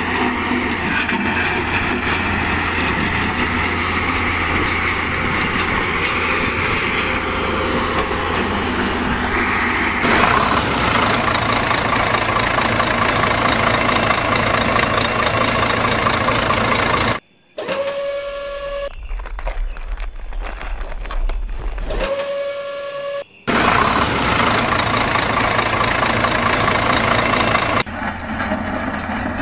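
Heavy construction vehicle engines running, in several sections joined by abrupt cuts: first the road roller, then the dump truck. Around the middle the sound drops out briefly, and two held, steady tones sound about five seconds apart.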